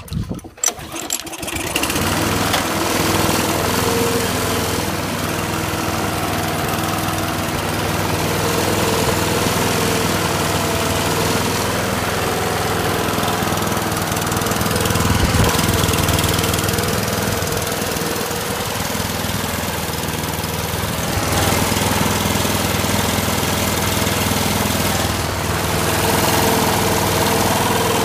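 Briggs & Stratton OHV lawn mower engine on a cold start: a few uneven cranking bursts, then it catches about two seconds in and runs steadily.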